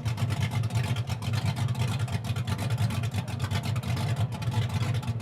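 1962 413 Max Wedge V8 running with a loud, steady, rapid exhaust beat through its factory exhaust, held at an even speed.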